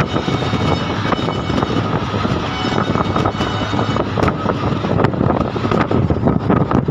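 Passenger train running: a steady rumble and rush with irregular clicks and knocks from the wheels on the track.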